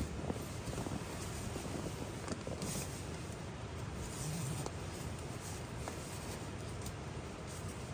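Steady autumn rain falling around a tarp shelter, an even hiss with scattered small ticks and crackles through it.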